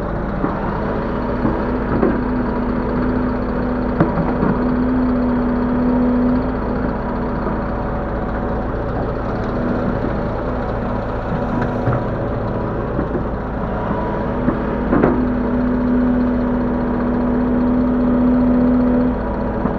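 Link-Belt 145X3E hydraulic excavator's diesel engine running steadily while the machine works. A steadier, higher tone comes in twice for about four seconds as the hydraulics are put under load, and a few sharp knocks sound, the loudest about fifteen seconds in.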